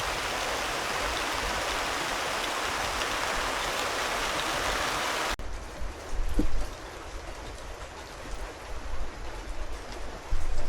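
Steady rush of falling water, an even hiss that cuts off abruptly about five seconds in. After that, a quieter background with a few faint knocks.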